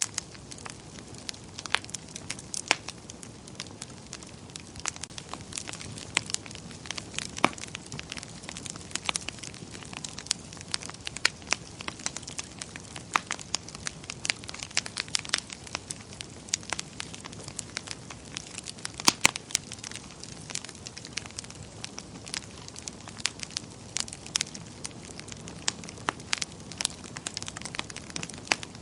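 Wood fire in a fireplace burning with a steady low hiss and frequent irregular crackles and pops, a few louder snaps about two-thirds of the way through.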